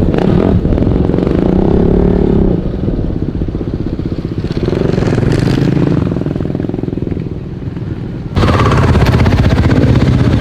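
Dirt bike engine running, its pitch rising and falling with the throttle. About eight seconds in, the sound turns suddenly louder and denser.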